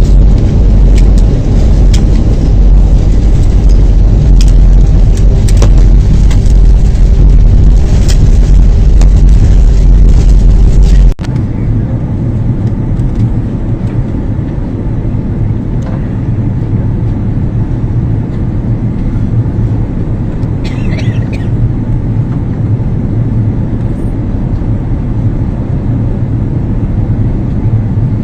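Steady, loud cabin noise of a jet airliner in flight, a low rumble of engines and airflow. About eleven seconds in it drops abruptly to a quieter, less booming rumble.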